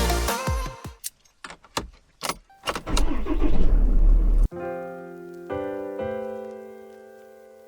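A few sharp clicks and knocks with a jangle like keys, then a vehicle engine starting and running low for about a second and a half before cutting off abruptly. Held music chords follow.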